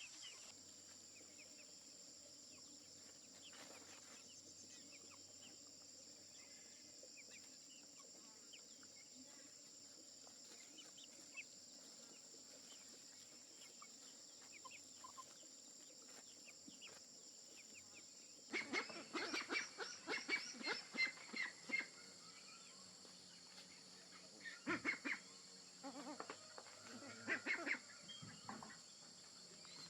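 Chickens squawking in two rapid, agitated bouts in the second half, over a steady faint drone of insects.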